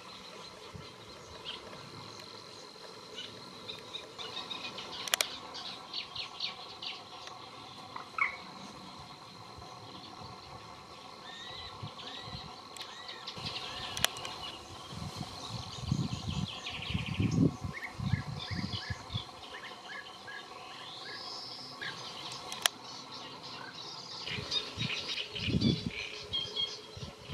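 Wild birds calling, with many short chirping notes and repeated phrases. A few sharp clicks and some low rumbles come through, loudest a little past the middle and again near the end.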